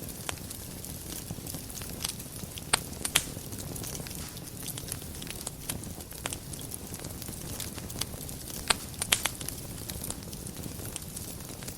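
Wood fire burning in a fireplace: a steady low rumble and hiss of the flames with irregular sharp crackles and pops, a few louder pops about three seconds in and a quick cluster of them near the nine-second mark.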